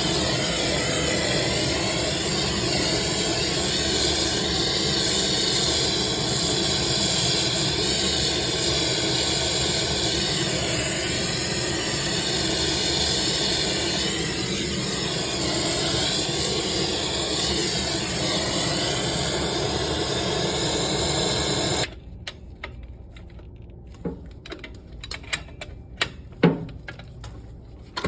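Steady hiss of pressurised gas escaping, which stops suddenly about 22 seconds in. A few light clicks and taps follow.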